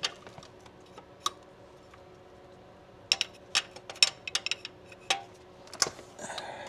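Irregular sharp clicks and taps of hand tools and metal parts being handled during under-car work. The clicks are scattered at first and come in a quick cluster through the second half.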